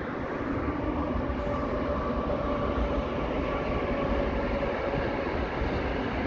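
A train running past, a steady rumble with a faint whine held above it.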